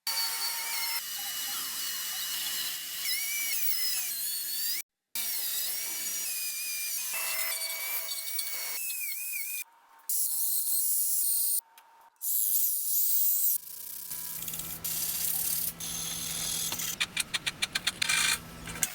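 Power tool working metal with a high-pitched whine whose pitch wavers as the load changes, heard in several short takes that break off suddenly. Near the end, a rapid run of short bursts.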